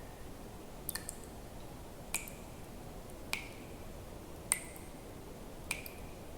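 Water drops falling one at a time into water, each a sharp plink with a short ringing tail, about one every 1.2 seconds, over a faint steady hiss.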